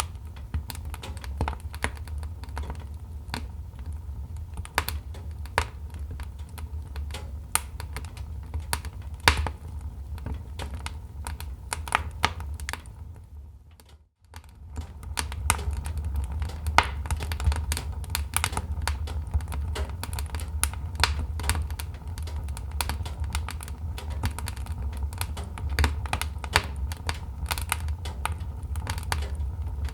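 Wood fire crackling: irregular sharp pops and snaps over a low steady rumble. The sound fades out almost to nothing about halfway through and quickly fades back in.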